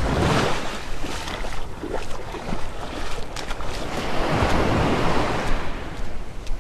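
Waves washing onto the beach, with wind rumbling on the microphone. The wash swells just at the start and again, longer, about four to five seconds in.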